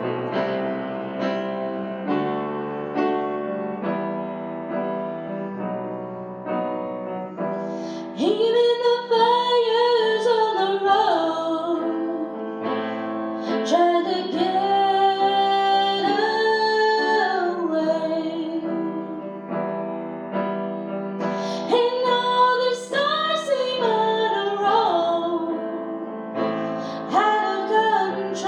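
Piano accompaniment playing alone, then a female voice singing a ballad over it from about eight seconds in, in phrases with short pauses between them.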